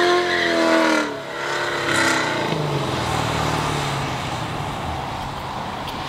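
Car engine revving hard during a burnout on wet pavement. Its pitch drops about a second in, rises again briefly near two seconds, then settles to a lower note and fades as the car pulls away, leaving a steady rushing noise.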